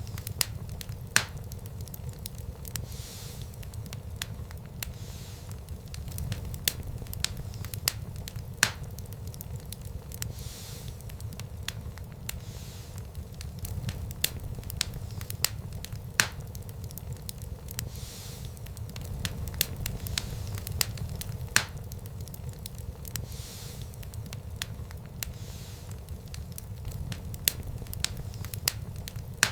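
Wood fire burning in a fireplace: a steady low rumble of the flames with irregular crackles and pops, a handful of them sharper and louder.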